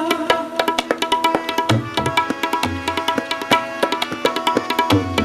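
Tabla playing a fast, dense rhythmic interlude between sung lines of Sikh kirtan, with deep bayan strokes every second or so and a harmonium holding notes underneath.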